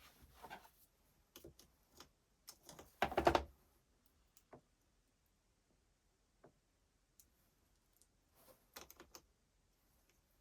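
Clicks and knocks of small hard parts being handled, with a louder, denser rattle of them about three seconds in and another short cluster near the end.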